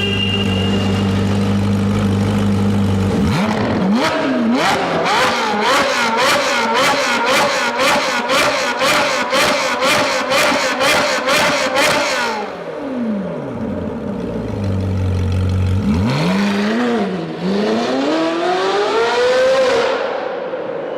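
Sports car engine with a loud aftermarket exhaust, idling, then revved up and down repeatedly with sharp cracks in a steady rhythm. It settles back to idle, then is revved once more and falls away.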